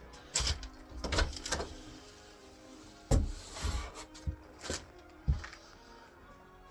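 Footsteps on wooden floorboards: about eight irregular knocks and thuds, most of them in the first five seconds, over faint background music.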